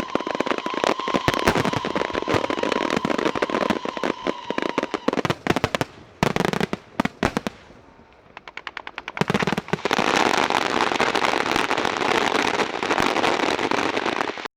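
Fireworks going off in a dense run of crackling pops. They thin to a few scattered pops about eight seconds in, then build back to a thick crackle that cuts off suddenly near the end.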